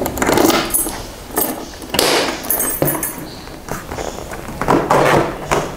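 Motorcycle seat being unlocked and lifted off: an uneven series of clicks, knocks and rustling handling noises.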